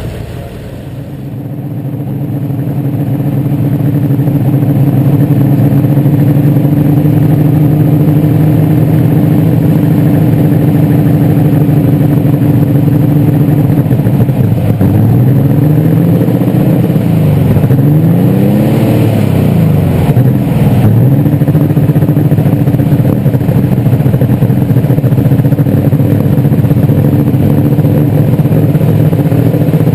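Light super stock pulling tractor's engine, heard up close, running hard under load; it builds over the first few seconds, holds a steady pitch, then dips and surges several times in the middle before steadying again.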